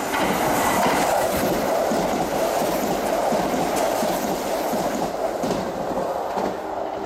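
A Kintetsu Urban Liner limited express electric train passes through the station at high speed: a loud rush of wheel and air noise with rapid clicking over the rail joints. It fades near the end as the last car clears.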